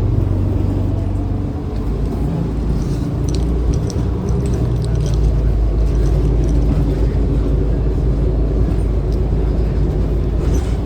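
City bus engine and road noise heard from inside the cabin: a steady low rumble that shifts in pitch a couple of times as the bus changes speed, with a few faint light rattles.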